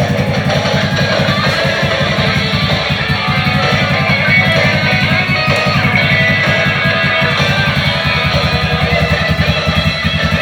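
Honda Fusion scooter's single-cylinder engine idling steadily, with an even, fast pulse that does not change.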